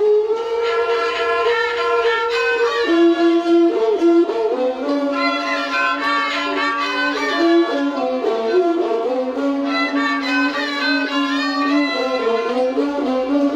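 A Thai classical overture (homrong) melody played on bowed string instruments. A lead line moves in steps and ornamented slides over other sustained notes.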